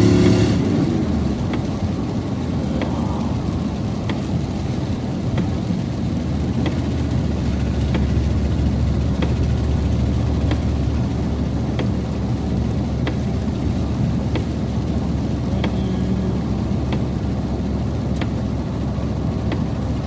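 Steady road and engine noise inside a moving car, with a light click repeating about every second and a quarter.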